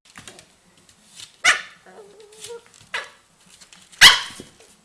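A dog barking: three sharp barks about a second and a half apart, the last one the loudest.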